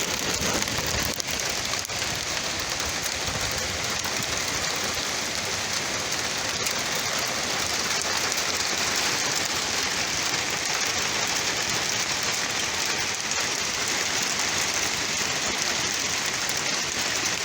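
Rain with small hail, about a quarter inch across, pelting down: a steady, dense hiss of countless small impacts.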